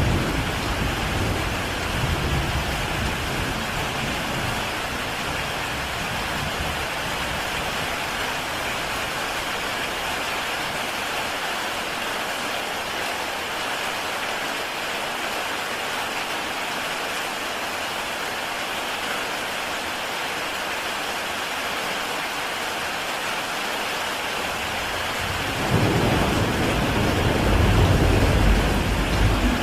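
Heavy rain pouring steadily onto a tile roof, an even hiss. Low thunder rumbles at the start and again a few seconds before the end.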